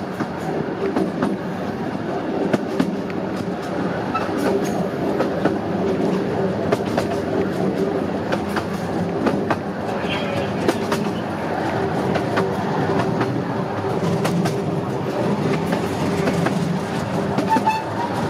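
Diesel-hauled miniature railway train running, its wheels clicking over the rail joints again and again over a steady engine hum.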